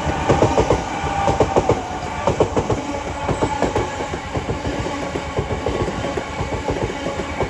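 A pair of Class 376 Electrostar electric multiple units passing through the station without stopping, wheels clattering rapidly and continuously over the rail joints.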